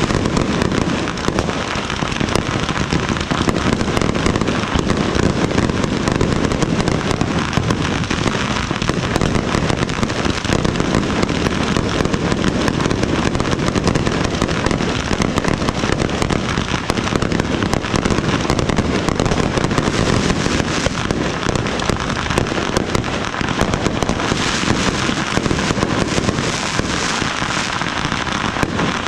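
A dense, unbroken barrage of fireworks: many overlapping bangs and crackles from shells bursting. The high crackling grows stronger near the end as glittering crackle shells go off.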